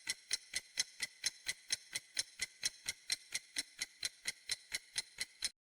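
Clock ticking sound effect: a steady run of sharp ticks, about four a second, that stops about five and a half seconds in.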